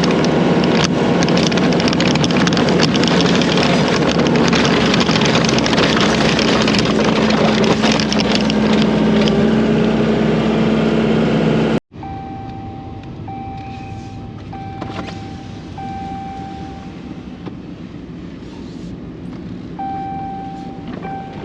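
A farm machine's engine runs steadily and loudly while it clears snow. About twelve seconds in, the sound cuts abruptly to a quieter engine running, with a steady high beep that sounds in short stretches, several times.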